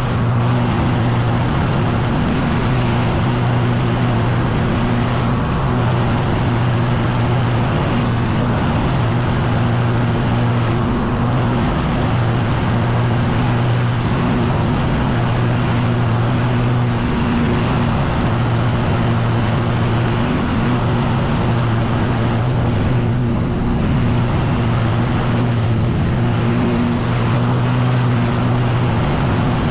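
Echo PB-9010T backpack leaf blower's two-stroke engine running steadily, with the rush of air from its blower tube; the engine pitch wavers slightly now and then.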